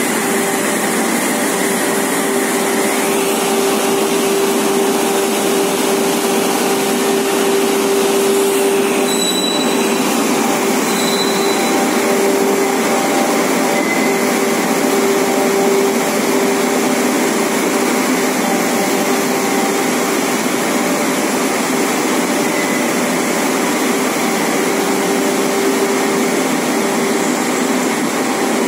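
Nonwoven fibre production line machinery running with a steady, even whir and a constant hum, without any change in pace.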